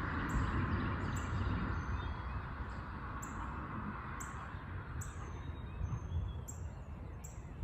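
Rolling thunder from a close lightning strike, a long low rumble that slowly fades away, with short high bird chirps about once a second over it.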